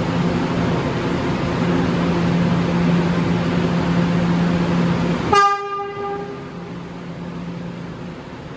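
New York City subway train running through the station with a steady rumble and low hum, then about five seconds in a short horn toot after which the rumble is much quieter.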